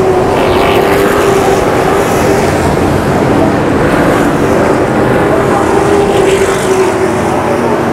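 Race truck engines running hard at speed on an oval track: a loud, continuous engine noise whose pitch drifts slightly up and down.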